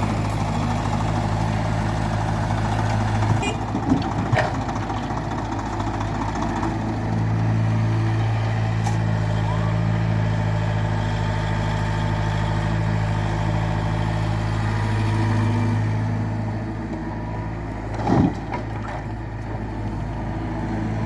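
Heavy machine's diesel engine running steadily, with a few short clunks about four seconds in and a louder knock near the end.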